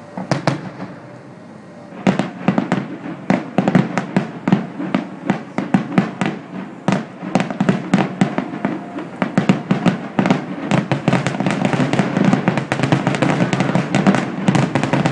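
Aerial firework shells bursting: a bang just after the start, a short lull, then from about two seconds in a rapid, near-continuous barrage of bangs that grows denser toward the end.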